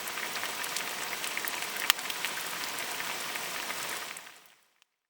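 Rain falling on a camping tarp: a steady patter with sharper drops striking now and then, one louder about two seconds in. It fades out near the end.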